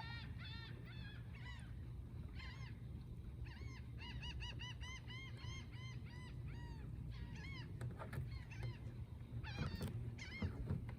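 Gull giving rapid runs of short, arched, honking calls, several a second, coming in bursts over a low steady rumble.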